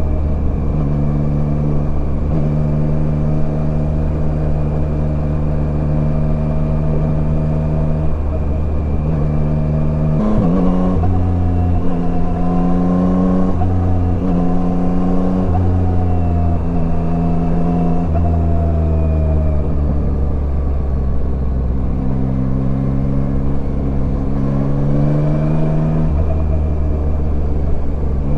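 Yamaha Tracer 9 motorcycle's inline-three engine running under way. Its pitch steps up a little after ten seconds, sinks over the following several seconds, drops lower around two-thirds through, then climbs again near the end.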